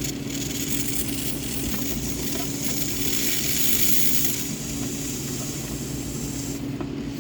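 Pressurized hissing as the transmission cooler lines are flushed, cleaner and fluid being forced through the cooler. The hiss is strongest for the first four seconds or so, then weaker, and cuts off near the end, over a steady low hum.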